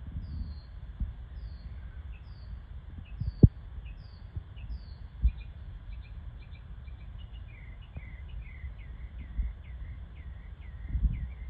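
A bird singing a long run of short, evenly spaced chirps, about two a second: high falling notes at first, changing about halfway to lower hooked notes. Under it a low rumble on the microphone, with one sharp knock about three and a half seconds in.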